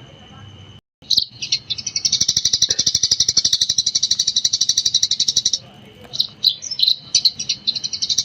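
Eurasian tree sparrow chirping in the rapid 'gecor' style: a few separate high chirps, then a long fast run of rapidly repeated chirps, a short break with single chirps, and another fast run starting near the end.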